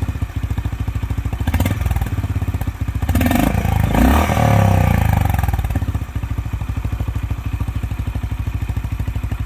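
Honda H'ness CB350's single-cylinder engine running through its stock exhaust, with an even pulsing idle beat. It is revved briefly twice, once short and once longer, then settles back to a steady idle about six seconds in.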